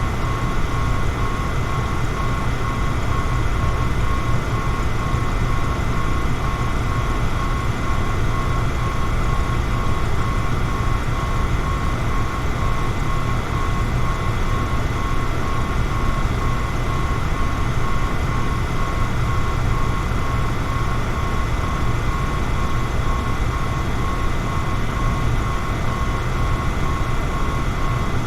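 Electric fan running steadily: a low hum and a rush of moving air, with a steady whine on top.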